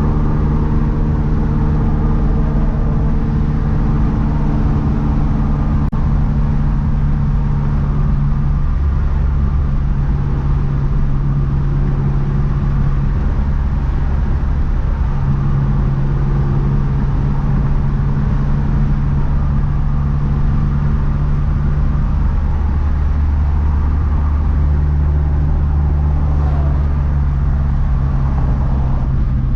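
Big-turbo 2012 Mazdaspeed 3's turbocharged 2.3-litre four-cylinder running at a steady cruise with road noise, its engine note shifting slightly in pitch a few times.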